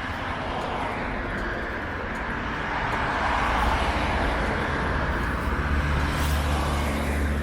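Road traffic: a car passing on the street, its tyre and road noise swelling to a peak about three seconds in, with a low engine hum that grows toward the end.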